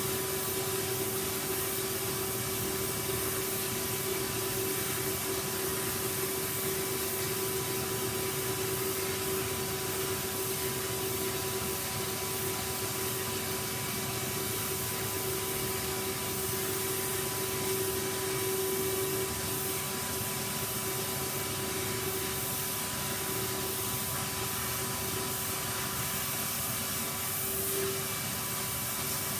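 Vacuum cleaner running steadily: a constant whine over a rush of air. The whine weakens somewhat after about twenty seconds.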